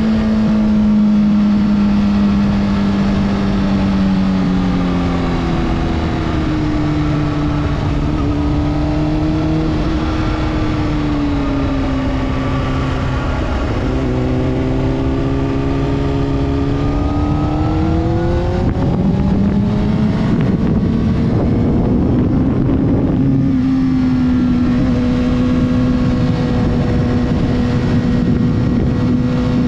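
Honda CBR600RR's inline-four engine running under a rider through curves, heard with wind rush. Its pitch falls and rises with the throttle, breaks briefly a little past halfway, then climbs and holds steady near the end.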